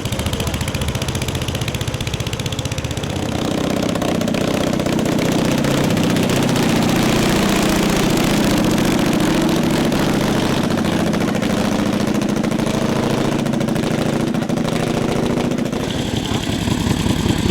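Vintage pre-1915 motorcycle engines running with a steady, rapid firing beat that grows louder about three seconds in.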